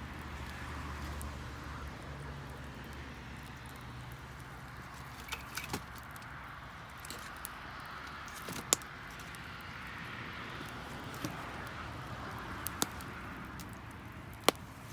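Wood bonfire burning with a steady hiss, broken by a handful of sharp, isolated pops and crackles, the loudest near the middle and near the end.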